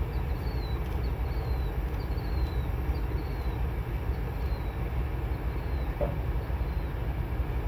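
Semi-truck diesel engine idling with a steady low rumble. Short high falling chirps repeat about twice a second over the first half.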